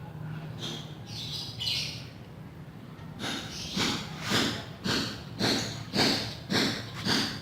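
Rhythmic hand rubbing strokes on wood, about two a second, starting about three seconds in. Before them there are a few faint high chirps.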